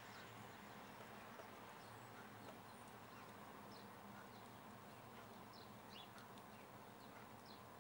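Faint steady rain with a few faint, short high chirps scattered through it.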